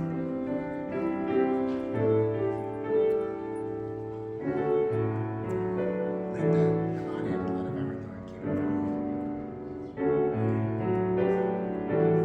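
Slow keyboard music: a melody over held chords, changing every second or two.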